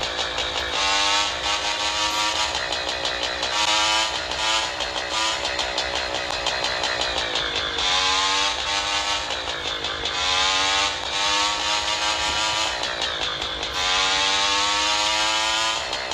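Motorcycle engine on the move, its pitch repeatedly climbing and dropping back as the rider accelerates and eases off, over a steady rush of wind and road noise.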